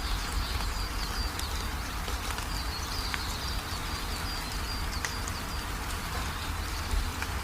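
Steady rain falling, with a few sharp drop ticks, over a constant low rumble. A small bird chirps in quick runs of short high notes through it.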